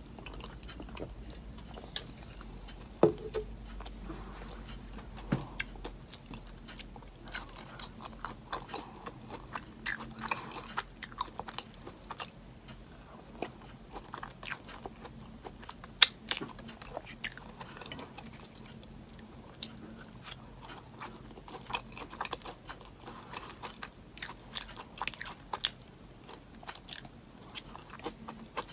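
Close-miked eating sounds: a person chewing and biting into homemade animal-style fries, with a steady run of small crunches and wet mouth clicks. A couple of louder sharp clicks stand out, about three seconds in and again near the middle.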